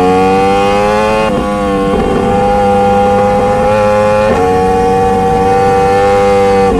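Motorcycle engine running under way. The revs climb over the first second or so, then dip briefly three times as gears change, holding a steady pitch between the changes.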